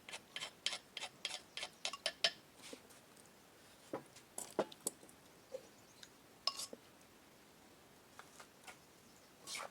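Utensil clinking against a dish: a run of quick, even clinks, about four a second, for the first two seconds, then a few scattered clinks.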